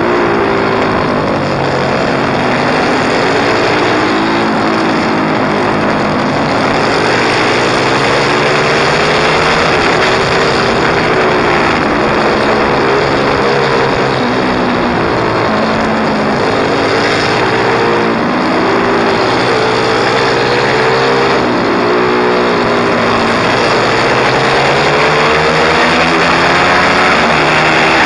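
Pit bike engine being ridden hard, its pitch climbing and dropping over and over as it revs up, shifts and backs off, under a constant rush of noise.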